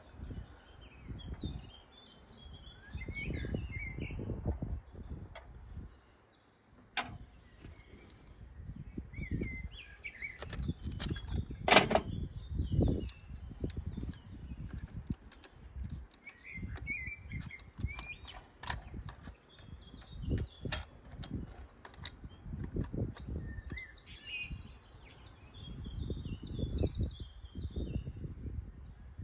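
Small birds chirping and singing on and off throughout, over an uneven low rumble. A few sharp clicks and knocks break in, the loudest a clatter about twelve seconds in.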